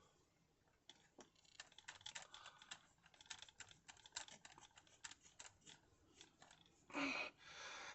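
Faint, irregular light clicks and ticks of a small screw and a hand tool being worked on a plastic RC car chassis while a motor-mount screw is fitted and tightened. A brief louder rustle comes near the end.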